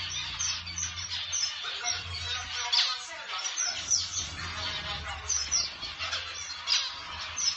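A group of zebra finches calling: many short, high, nasal chirps that drop in pitch, overlapping in quick succession.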